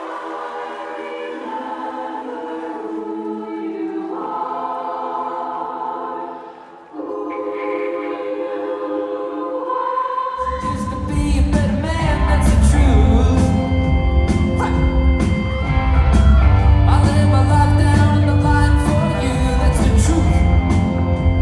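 Live band in concert: slow held chords with singing, then about ten seconds in the drums and bass come in and the full band plays.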